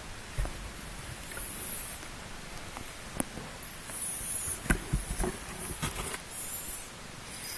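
Newborn kittens squeaking faintly a few times, with soft rustling and a few light knocks, most of them past the middle.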